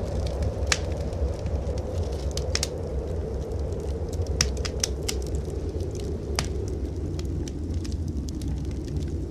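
Wood fire crackling in a fireplace, with sharp irregular pops every second or so, over a steady low rumble.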